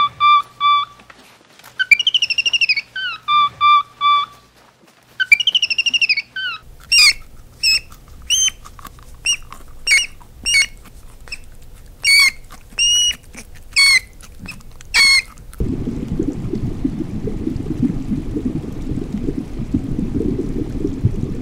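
Bird-like chirping: repeated calls that glide down in pitch, each ending in short chirps, then a run of quick, sharp chirps. About two-thirds of the way through the chirping stops and a steady low rush of water takes over.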